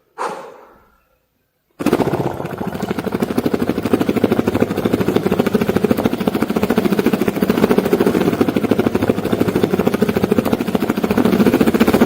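Beatboxed helicopter imitation: a fast, even chopping pulse like rotor blades, made with the mouth. It starts about two seconds in, after a short sound and a moment of silence.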